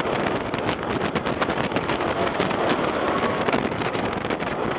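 Wind rushing over the microphone and the running noise of the train on the Millennium Force steel roller coaster, a steady, loud rush during the ride.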